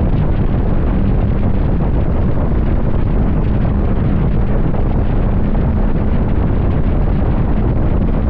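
Steady, loud wind rush on the microphone of a motorcycle moving at highway speed, heaviest in the low end.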